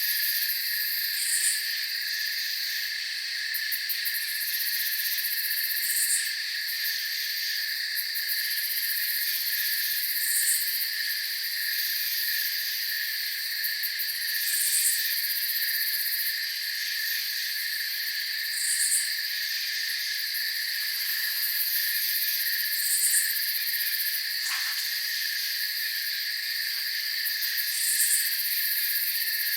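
Night chorus of crickets, a steady high trilling, with a short, very high chirp repeating about every four seconds.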